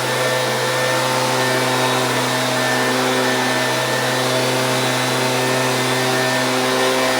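Stihl BG 86 handheld leaf blower's two-stroke engine running steadily at a constant speed, its hum and fan rush holding unchanged.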